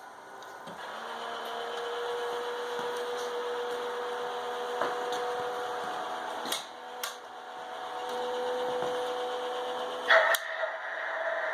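Small electric motors of a model train layout running with a steady hum. A few sharp clicks come in the middle, and near the end a sharp click is followed by a louder, higher hum as another mechanism starts.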